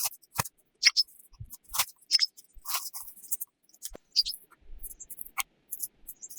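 Irregular sharp clicks and taps, one or two a second, at uneven spacing.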